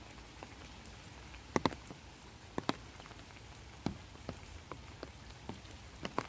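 Light rain falling: scattered single drops ticking and plinking at irregular intervals over a faint, steady hiss.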